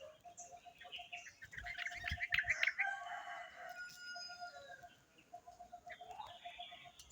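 Birds calling: a busy burst of quick chattering chirps about a second and a half in, then fainter chirps, over a rapid pulsing note that comes and goes in short runs.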